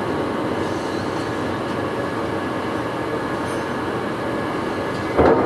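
Poreba TPK90A1/3M heavy-duty engine lathe running under power, its spindle and headstock gearing giving a steady mechanical whir. A sudden louder knock comes near the end.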